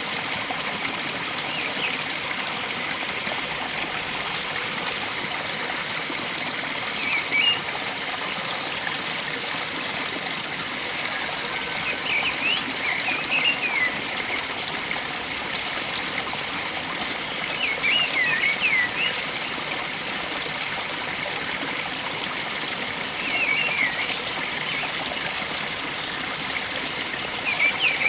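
Steady rush of a flowing stream, with a bird calling over it in short clusters of quick, high chirping notes, a burst about every five seconds.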